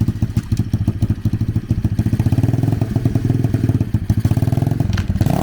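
The drift trike's 125cc single-cylinder dirt-bike engine running at low to middling revs, a rapid, even chug of firing pulses.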